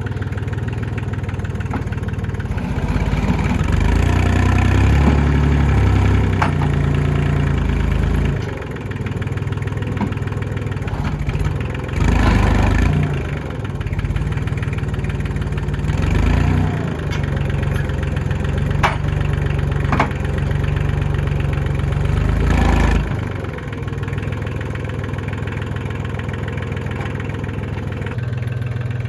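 Tractor engine running steadily under load, revved up in several surges as it works to lift a mega bale of over 1,000 pounds on bale forks, with a few sharp knocks in between.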